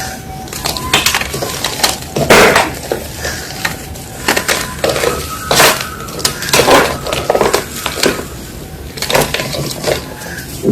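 Gym chalk crunching and crumbling in a run of irregular sharp crunches. The loudest come about two and a half seconds in and at the halfway point.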